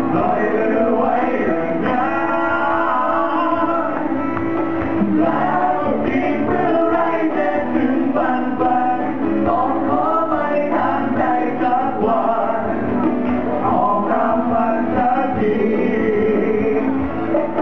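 Live pop song performed on stage: singers' voices over a full band, loud and steady, heard through the hall's PA.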